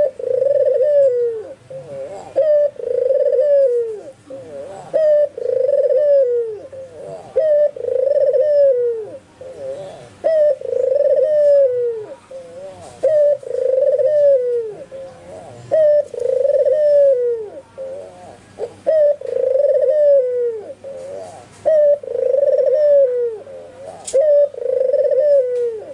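White (albino) ringneck dove cooing over and over, about ten phrases, each a held low coo ending in a falling note.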